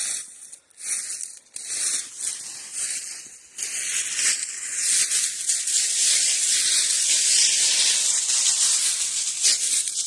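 Footsteps crunching and rustling through dry leaves and brush, a steady crackling that drops out briefly a couple of times in the first few seconds.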